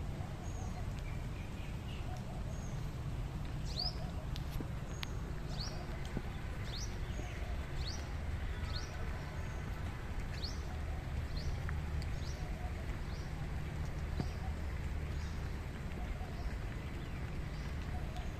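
A bird calling with short rising chirps, one or two a second, clustered through the middle of the stretch, over a steady hiss of rain and a low rumble.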